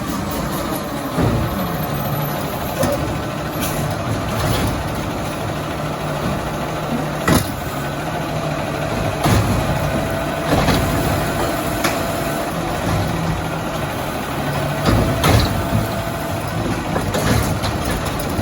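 Diesel engine of an Autocar ACX garbage truck with a Bridgeport Ranger body running steadily. A steady whine comes in twice in the middle, and a few sharp knocks and bangs stand out over the engine.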